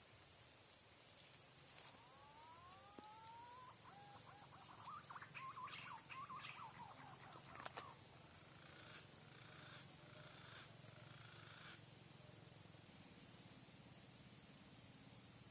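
Insects in a steady high-pitched drone, with a pulsing chirp about three times a second that stops about nine seconds in and returns near the end. In the middle, a bird gives several rising whistles that break into a quick warbling call.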